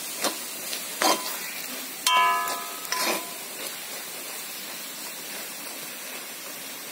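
Clam meat frying in oil in a metal kadai, sizzling steadily as a spoon stirs and scrapes the pan with a few knocks; the clams are near done, roasting brown. A short ringing tone sounds about two seconds in.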